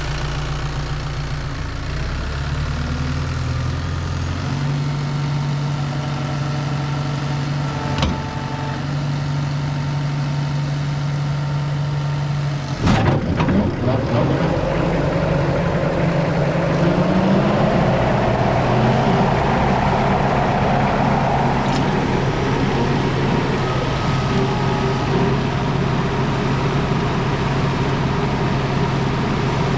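Kubota diesel tractor engine running steadily just after starting. About 13 seconds in there is one loud clunk as the PTO engages the batwing bush hog. A rising whir and a louder rush follow as the cutter's blades spin up.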